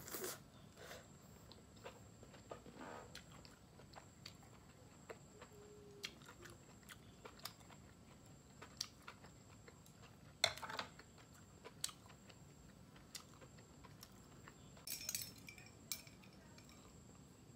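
Faint close-up chewing and mouth sounds of someone eating a bite of grilled beef roll wrapped around enoki mushrooms and peppers, with scattered small clicks and a louder short noise about ten seconds in. Near the end, a short sip through a straw.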